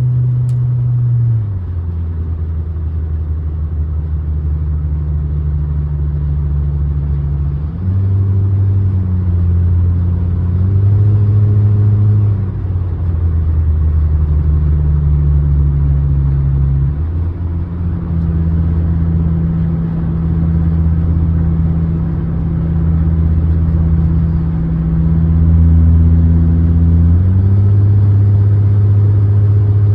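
Car engine of a 2006 Honda Accord, a K-series four-cylinder, running while driving; its note holds steady for a few seconds at a time, then steps up or down in pitch several times.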